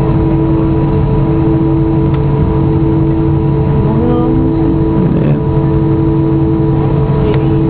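Steady cabin drone of an Airbus A320 on the ground before takeoff: a continuous low rumble with several steady hum tones over it.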